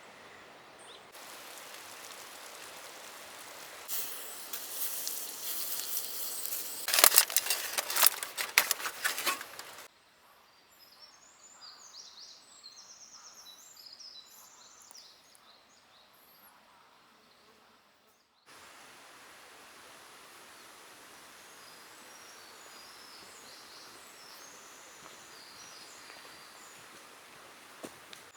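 Forest ambience: a steady rushing hiss like a flowing stream, growing louder with a cluster of sharp cracks and clicks about a third of the way in, then a sudden drop to quiet with small birds chirping, and the steady hiss returning with faint birdsong.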